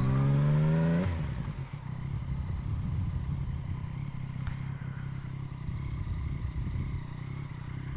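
Yamaha MT-09 inline-three engine through an Akrapovic carbon full exhaust, revving up under throttle for about a second, then the throttle closes and it drops back to a low, steady rumble as the bike rolls on.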